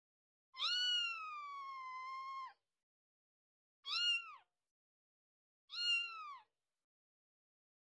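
A cat meowing three times: first one long, drawn-out meow that arches up and sinks slowly, then two short meows about two seconds apart.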